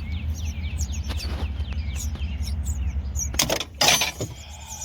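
Birds chirping over a steady low hum; about three and a half seconds in, a loud sudden clatter as a heel bar prying on a stuck diesel injector slips and breaks its end off.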